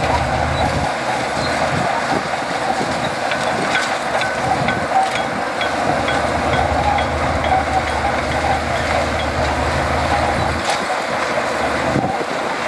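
Shantui DH17C2 crawler bulldozer working, its diesel engine running steadily with a low rumble, and light metallic clinks from the steel tracks.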